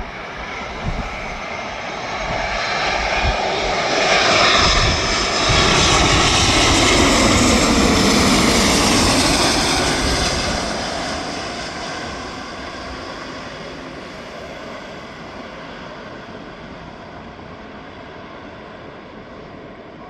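Airbus A330-343 landing, its Rolls-Royce Trent 700 turbofans passing by. The jet noise swells to a peak a few seconds in, drops in pitch as the aircraft goes past, then fades away.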